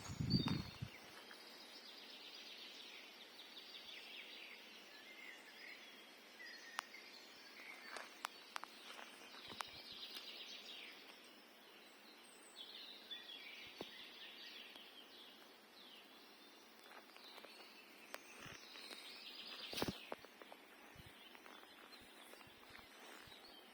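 Small songbirds singing and chirping, several overlapping, with scattered sharp clicks and a brief low thump just after the start.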